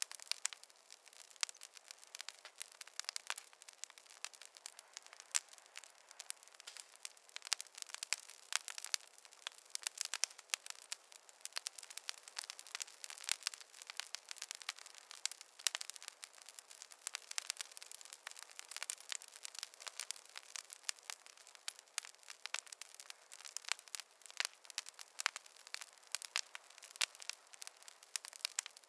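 Wood fire crackling, with dense, irregular sharp pops and snaps from the burning logs over a faint hiss.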